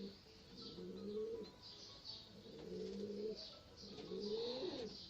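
Domestic pigeons cooing: repeated rising coo phrases about once a second, with faint high chirping of small birds above them.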